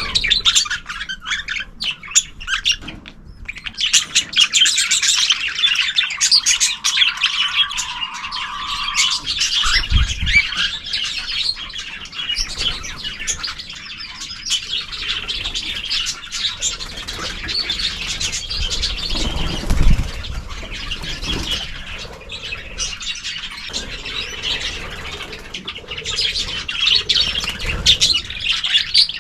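Mixed aviary of small cage birds, budgerigars, canaries and cockatiels, chirping and chattering continuously in a dense, overlapping chorus. A couple of low bumps stand out, about ten and twenty seconds in.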